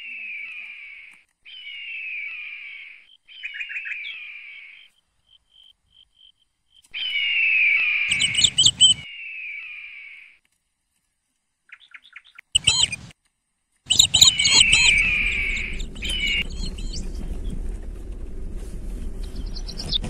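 A bird calling over and over, each call a downward-sliding note about a second long, with quicker chirps mixed in. Two short bursts about 8 and 13 seconds in bring a low rumble. From about 14 seconds in, a steady low hum runs under the calls.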